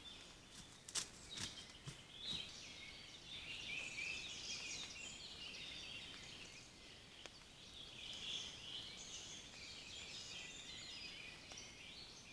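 Several songbirds singing at once in woodland, a dense overlapping chorus of high chirps and trills. A few sharp clicks come in the first couple of seconds, the loudest about a second in.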